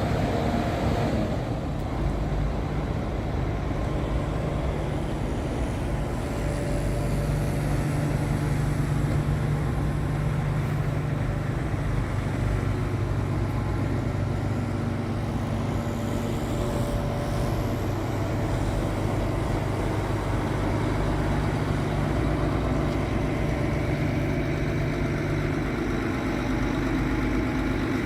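Doosan 360LCA excavator's diesel engine running at a steady speed, a constant low drone.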